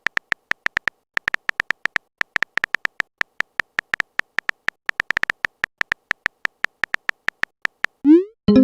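Short electronic beeps, about four a second in an uneven rhythm: a text-typing sound effect as chat messages are typed out. Near the end a quick rising electronic swoop.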